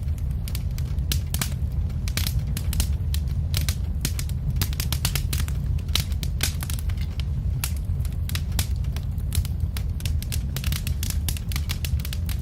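Wood fire in a fireplace crackling: irregular sharp pops and snaps over a steady low rumble of flames.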